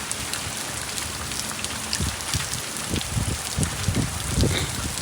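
Steady rain falling, pattering on surfaces. From about two seconds in, a run of irregular low thuds, several a second, sounds over the rain.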